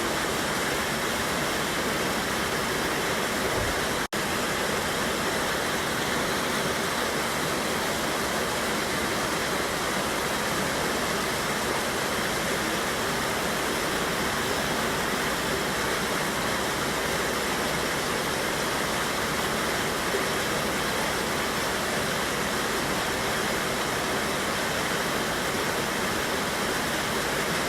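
Steady rushing of a river waterfall, water pouring over rocks in a constant roar of white water. A split-second dropout breaks it about four seconds in.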